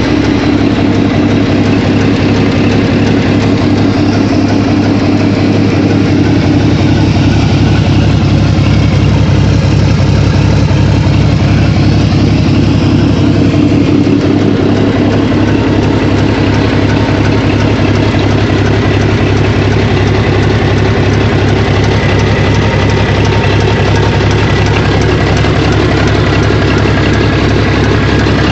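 Komatsu SA6D170E-2 bulldozer engine, a six-cylinder turbocharged diesel, running steadily at a constant speed on its first start, being run in.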